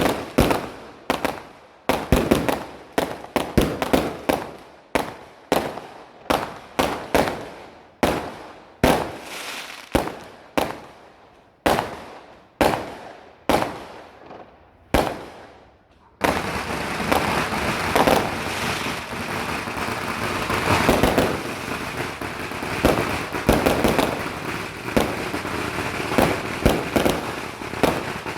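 Fireworks going off in a rapid series of sharp bangs, about two a second, each dying away with an echoing tail. About halfway through the bangs give way to a dense, unbroken crackling of firecrackers.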